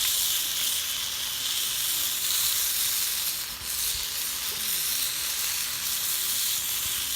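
Food frying with a steady sizzle.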